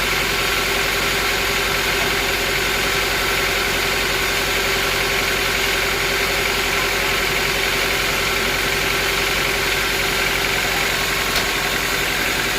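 Bandsaw sawmill machinery running steadily with an even, unchanging hum. A single faint click comes near the end.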